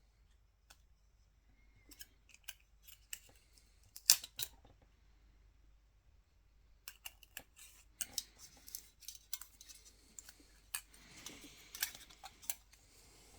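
Small, sharp clicks and taps of metal and plastic camera parts being handled on a bench, scattered at first with one louder click about four seconds in, then a denser run of clicks with light rustling in the second half.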